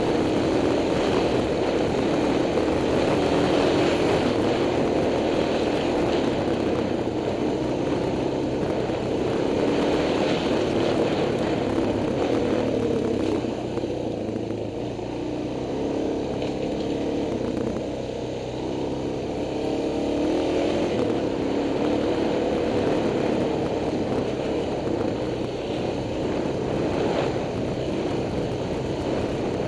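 Dirt bike engine heard on board while riding a rough forest trail, its note wavering up and down with the throttle. It eases off and runs quieter for a few seconds about halfway through, then picks up again.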